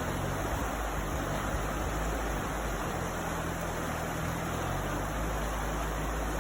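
Steady rushing noise of river water at a ford, with the low steady hum of a vehicle engine running underneath.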